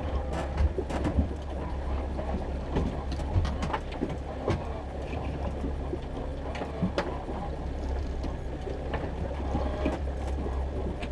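Fishing boat's engine running with a steady low drone, under scattered clicks and knocks of gear being handled on deck as a hook is worked out of the landing net.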